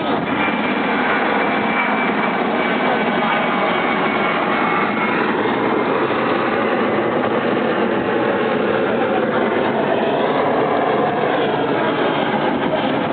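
Sailboat motoring under its engine, making a steady rushing noise that does not change.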